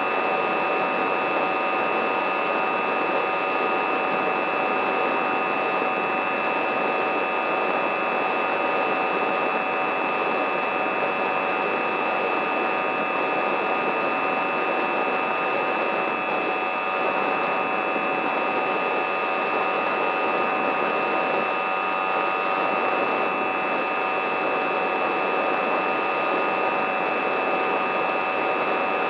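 Small electric motor and propeller of a radio-control aircraft running steadily, a constant whine at an even pitch over a rush of air noise.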